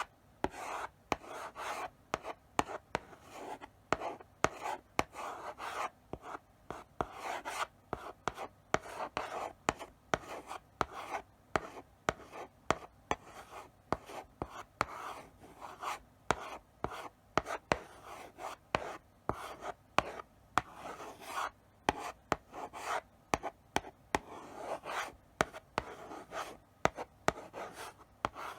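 Chalk writing slowly on a blackboard: scratchy strokes broken by sharp taps as the chalk meets the board, in an irregular rhythm of several taps a second.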